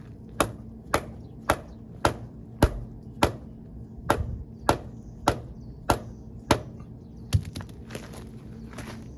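A dozen sharp hammer blows, about two a second, driving the piston and rod assembly into the hydraulic cylinder tube. They stop about seven and a half seconds in, over a faint steady low hum.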